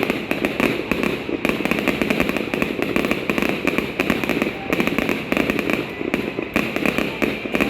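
Fireworks display going off in a dense, continuous stream of rapid pops and crackles, several bangs a second with no break.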